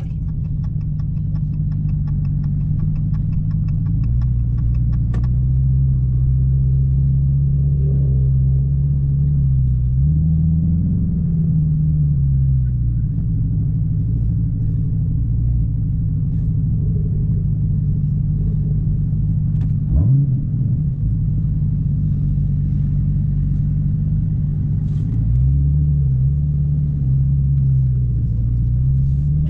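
Dodge SRT Hellcat's V8 engine running at low revs while driving, its note rising and easing back twice, with a sharp click about two-thirds of the way through.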